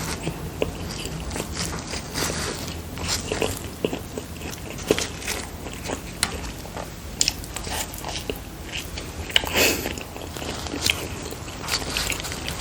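Close-miked eating: bites and chewing of filled dumplings, with irregular soft crunches and wet mouth clicks, one louder bite near the end.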